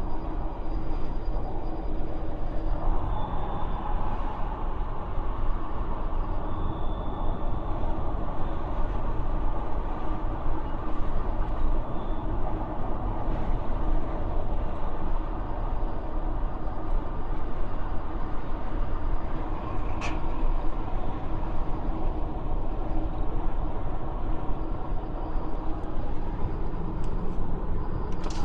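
Peugeot 508 being driven, with steady road and running noise and a faint steady hum under it, which the owner records as an abnormal noise heard while driving. A single sharp tick comes about two-thirds of the way through.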